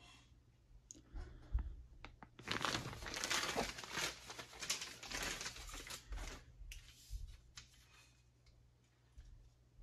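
Rustling and crinkling of wrapping material being handled by hand, busiest from about two and a half to six and a half seconds in, with a few light clicks before and after.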